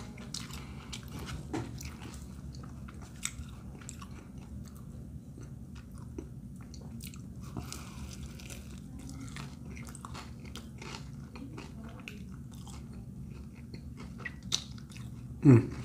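A person biting into and chewing a brisket sandwich on a toasted roll: soft crunches of the bread and many small wet mouth clicks, with a short hum-like sound near the end.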